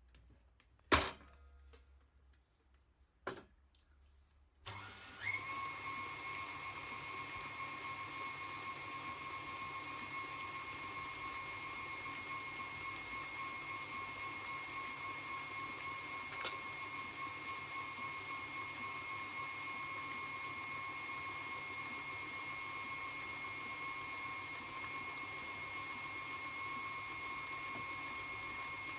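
Small electric motor of a kitchen appliance switched on after a couple of clicks, then running steadily with a constant whine.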